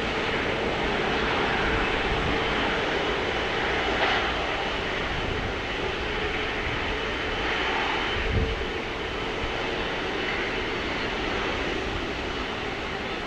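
McDonnell Douglas MD-11F freighter landing, its jet engines making a steady rushing roar with a faint steady hum in it. There is a brief low thump about eight seconds in.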